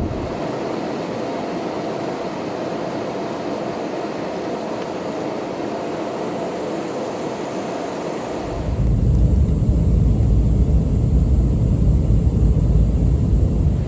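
Steady jet airliner cabin noise: engines and rushing air as a broad hiss. About eight seconds in it switches abruptly to a louder, deeper rumble.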